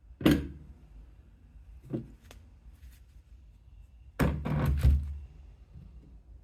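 Several knocks and clatters of hard objects being handled, as when parts and tools are set down during an engine rebuild: one sharp knock about a quarter second in, two lighter ones around two seconds, and a rattling run of knocks from about four to five seconds.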